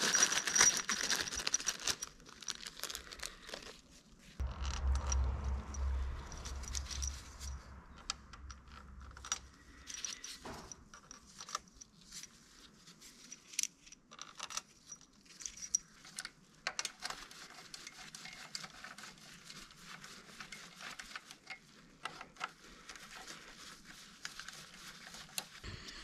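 Irregular light metal clinks and rustling as hand tools, sockets and engine parts are handled while the camshaft bearing caps are fitted for tightening, with a low rumble of handling near the microphone from about four to eight seconds in.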